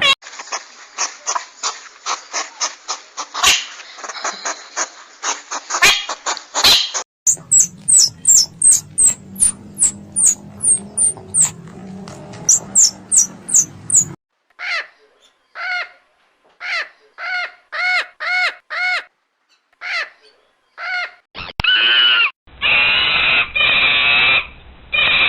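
A run of short, spliced animal-call clips, mostly bird calls. It opens with rapid sharp chirps, then high falling chirps over a low hum, then short repeated calls in quick series, and then longer repeated calls near the end.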